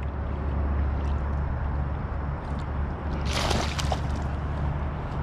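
Water sloshing around a kayak over a steady low rumble, with one brief splash about three seconds in as a hooked pickerel is pulled to the boat.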